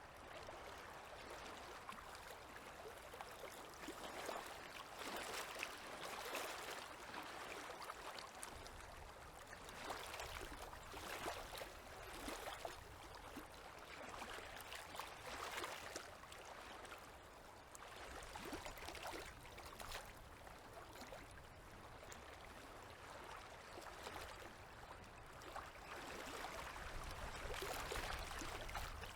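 Small river waves lapping, in an uneven run of soft splashes and gurgles.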